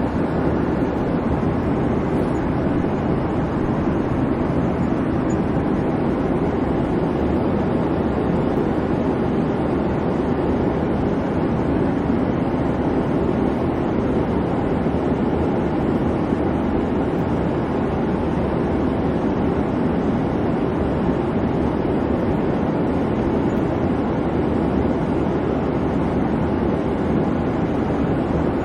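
Airplane cabin noise in flight: the engines' steady hum under an even hiss, constant throughout.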